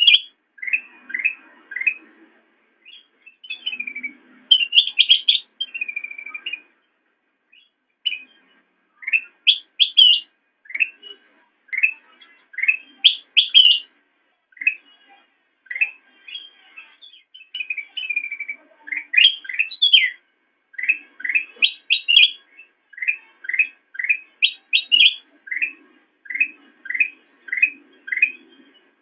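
Kutilang emas, a bulbul, singing a steady string of short, sharp chirps, mostly quick upward notes about a half-second to a second apart, broken by a few longer warbled phrases.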